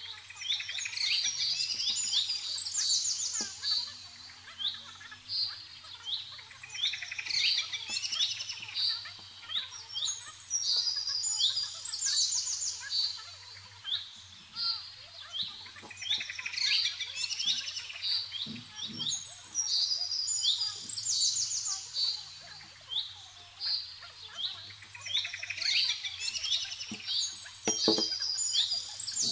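A songbird singing: phrases of quick, high chirps and trills, repeated every few seconds.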